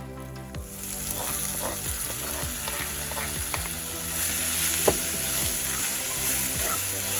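Food frying and sizzling in a pan while a spoon stirs it, scraping and tapping against the pan, with one sharper knock about five seconds in. The sizzle grows louder partway through.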